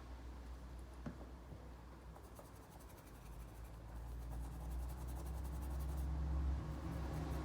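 Faint scratchy rubbing and brushing on a Ford car key fob as it is cleaned with isopropyl alcohol, with a single light click about a second in, over a low steady hum.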